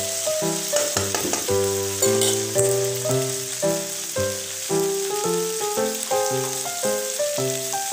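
Background instrumental music, a melody of short held notes, over okra, onion and tomato sizzling steadily in hot oil in a kadai.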